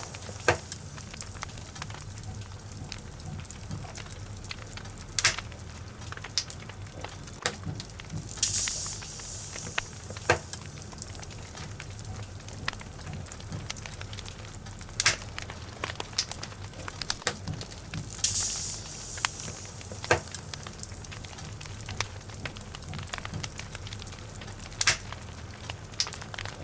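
Log fire crackling, with irregular sharp pops and a few short spells of high hissing over a steady low rumble.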